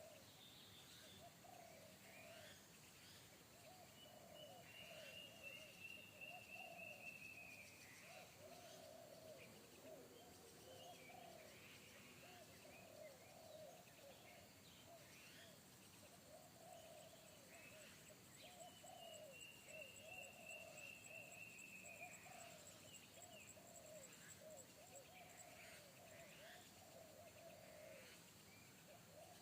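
Faint, repeated cooing of spotted doves, with other birds' higher calls above it, including a longer high call twice. A steady high insect buzz joins about halfway through.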